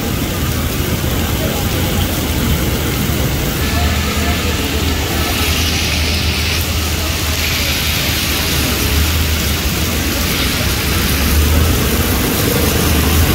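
Heavy rain pouring down in a dense, steady hiss that grows louder about four seconds in, over the low rumble of traffic engines driving through water on the flooded road.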